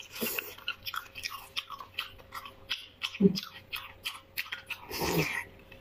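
Close-miked chewing and wet mouth sounds of someone eating bone marrow: a quick run of smacking clicks, with a louder low thud about three seconds in and a brief noisy burst near the end.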